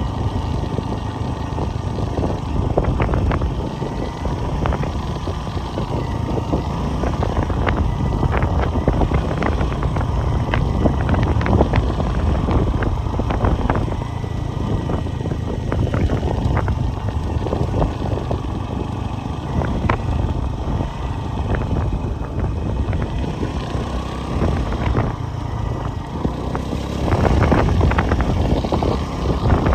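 A motor vehicle running steadily, with a low rumble, many scattered clicks and rattles, and a faint wavering whine.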